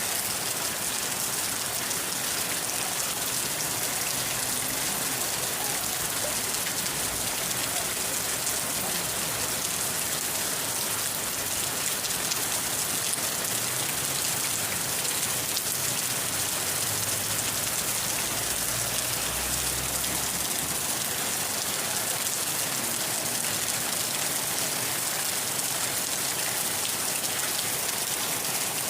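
Steady rain falling on a surface, an even hiss of drops with no let-up, and a faint low rumble part way through.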